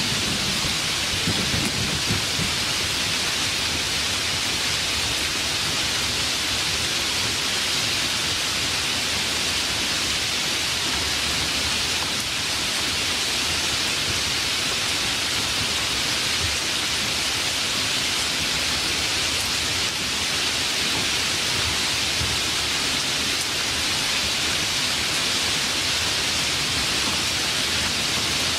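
Steady, even rain hiss from a rainstorm, with the last of a low thunder rumble dying away in the first two seconds.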